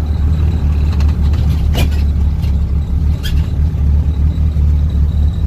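Turbocharged Honda Civic EG hatchback's engine idling with a steady, even drone, heard from inside the cabin, with a couple of faint clicks.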